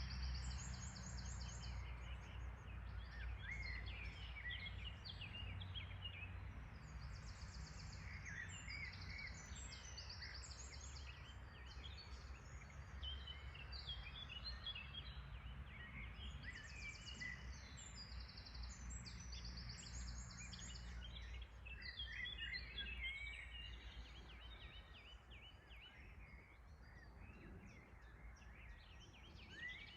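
Several songbirds singing and chirping, with rapid repeated trills every few seconds, over a steady low rumble.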